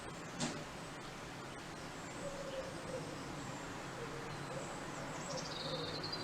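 Outdoor ambience with small birds chirping and whistling now and then, the clearest whistle near the end. A single sharp tick about half a second in.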